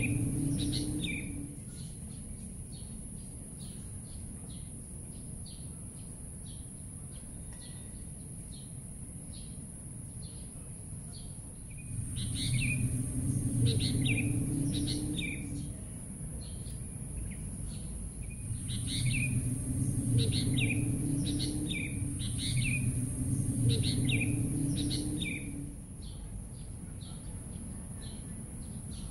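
Small birds chirping again and again over a steady high hiss, with a low rumble that fades about a second in and swells back twice, each time for several seconds.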